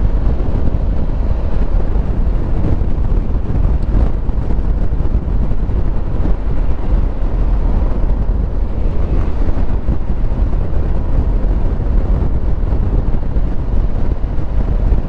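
Riding noise on a motorcyclist's helmet microphone: steady wind buffeting and low road and engine rumble from a Honda Africa Twin Adventure Sports cruising at an even speed.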